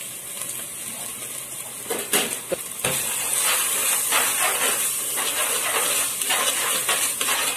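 Chili and turmeric spice paste sizzling in hot oil in a clay pot, stirred with a metal spoon scraping through it. A couple of knocks come about two and three seconds in, and then the sizzle grows louder as the paste is spread through the oil.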